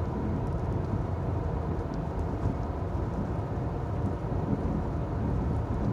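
Steady low rumble of a Chevrolet driving on a snowy road, engine and tyre noise heard from inside the cabin.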